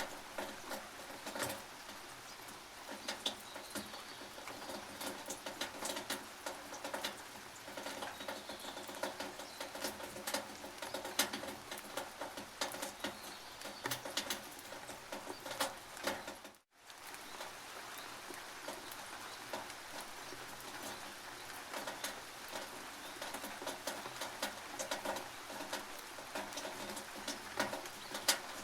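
Rain pattering and dripping on a tin roof: a steady hiss of rain with many sharp drop ticks. The sound cuts out for a moment about seventeen seconds in.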